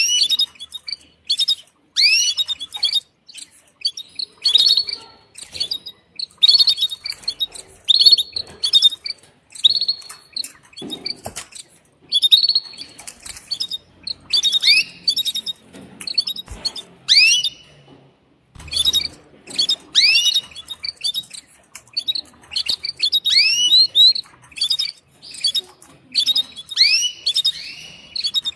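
Female canary giving its mating call to a male: short chirps repeated in quick runs, each note an arching sweep.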